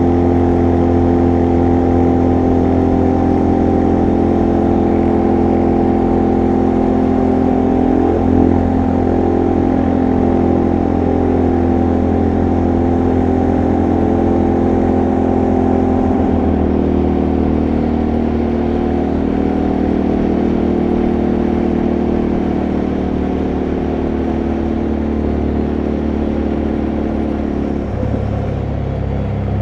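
ATV (quad bike) engine running at a steady speed. Its note drops slightly about halfway through and shifts again near the end.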